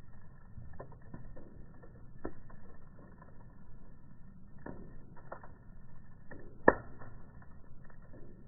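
Log campfire burning and crackling, with scattered pops and one loud sharp pop about two-thirds of the way through.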